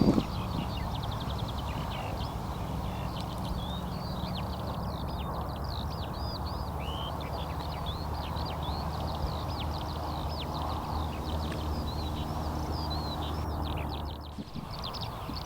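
Birds chirping busily, a stream of short, quick downward-sweeping calls, over a steady low hum. A short knock comes right at the start, and the hum drops away near the end.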